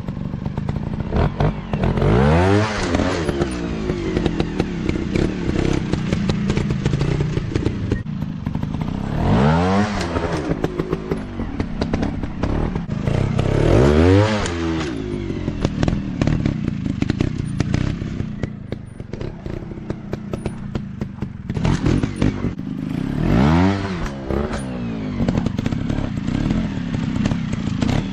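Dirt bike engines revving hard and backing off, rising sharply in pitch four times, with clattering and scraping throughout.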